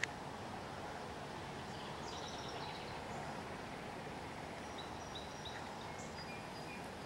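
Quiet rural outdoor background noise with a few faint, short, high bird chirps, twice in small clusters. A single sharp click at the very start.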